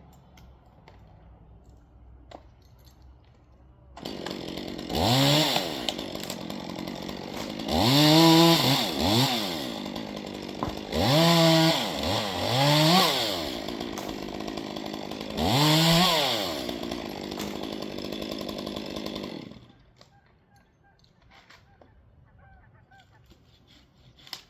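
Chainsaw starting up about four seconds in and revved hard about six times, its pitch climbing and dropping with each burst of throttle, then shutting off a few seconds before the end.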